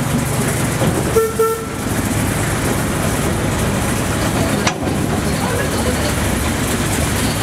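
Narrow-gauge train running along the track, a steady rumble of wheels and carriage heard from inside an open-sided carriage, with a brief horn toot about a second in and a single sharp knock near the middle.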